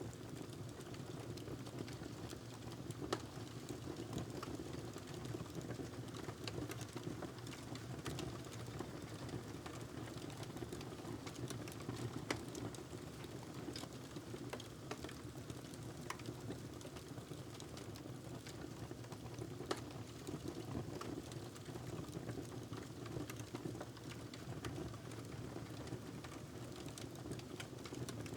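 Wood fire crackling steadily in a fireplace, with dense small crackles and a few louder pops over a low, steady rumble.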